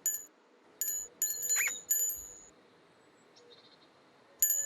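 A few short, bright, bell-like chime strikes ring out in turn, with a quick rising whistle-like glide about one and a half seconds in and another chime near the end.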